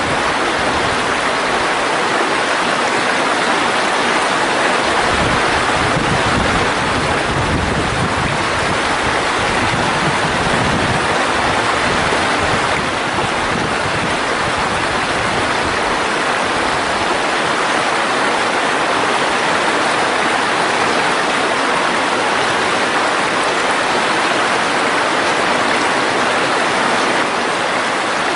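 Mountain valley stream running steadily, an even, dense rush of water.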